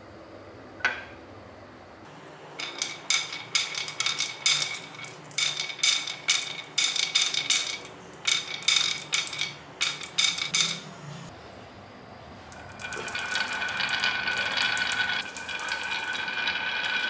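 Small hard objects clinking together, a rapid irregular run of sharp clicks with a bright ringing tone. Near the end it turns into a dense steady rattle.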